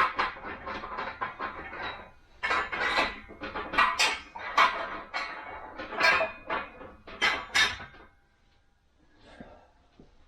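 Steel transmission parts and a socket clinking and clattering against each other as the bearing stack is handled and set up on the press, many sharp knocks that ring briefly. The clatter stops about eight seconds in, leaving only a couple of faint knocks.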